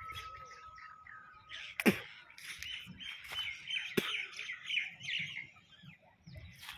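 Small birds chirping in a busy run of short calls, with a single held whistle-like note in the first two seconds. Two sharp clicks cut across them, about two and four seconds in, the first the loudest sound.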